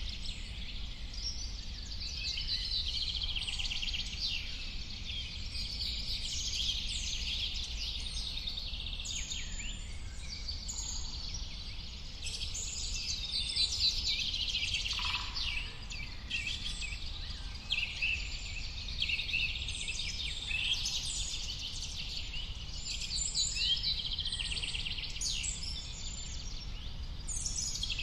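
Many birds singing at once: a dense chorus of quick chirps and short trills overlapping throughout, over a low steady rumble.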